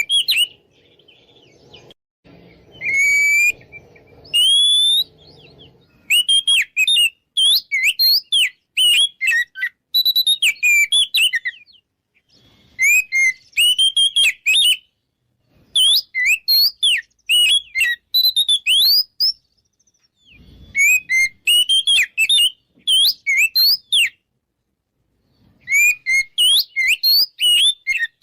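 Oriental magpie-robin (kacer) singing its loud, full territorial song, the kind used to provoke rival males to fight. It comes as bursts of rapid, varied whistled notes gliding up and down, broken by short pauses about every few seconds.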